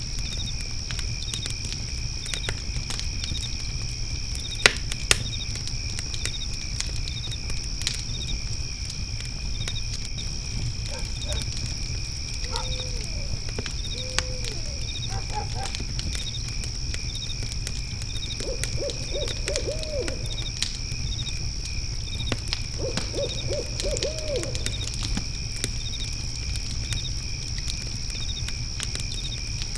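Layered night ambience: crickets chirring steadily with a regular chirp, scattered crackles from a wood fire, and an owl hooting. The owl gives a couple of single hoots about halfway through, then two quick runs of rapid hoots in the second half.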